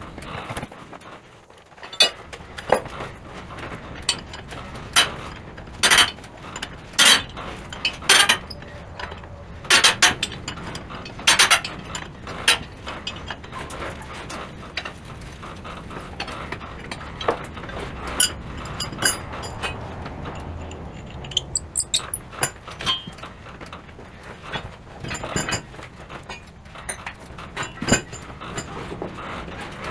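Irregular metal clinks and knocks of hand tools and parts being handled, coming every second or so at first and more sparsely later.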